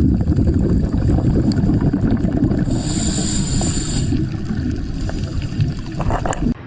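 Heavy low rumble of wind and water on an open microphone, like a small boat out on rough water, with a brief high thin whine about three seconds in.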